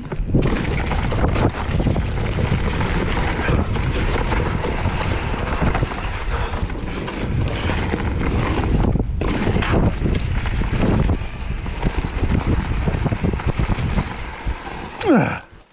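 Wind buffeting the microphone together with tyre and trail noise from a mountain e-bike being ridden fast. Near the end a short falling tone sounds, and then the noise drops away abruptly.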